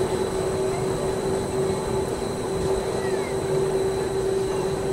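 Gornergratbahn electric rack-railway train running: a steady rumble with one held humming tone and a faint high whine.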